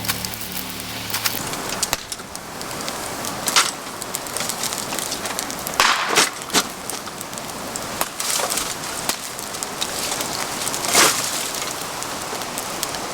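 Bamboo fire burning in a pail can: a steady crackling hiss broken by sharp pops and cracks several times, the loudest about 11 seconds in.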